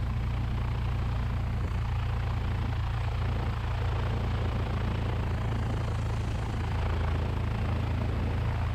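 Cessna 172's piston engine idling steadily, a low, even drone.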